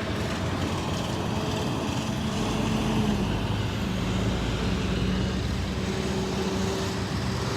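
Road traffic noise with a steady, low engine hum from a nearby vehicle.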